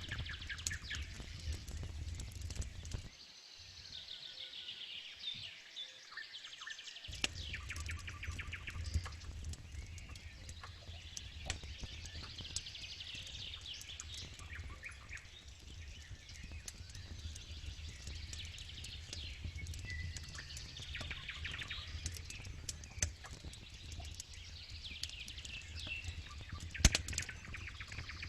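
Campfire crackling with scattered sharp pops, one louder pop near the end, while birds sing and chirp in repeated trills. A low steady rumble underneath drops out for a few seconds early on.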